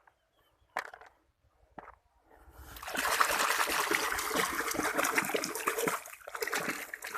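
Two faint clicks, then about two and a half seconds in, water starts running and splashing, continuing with a brief dip, as muddy toy trucks are washed.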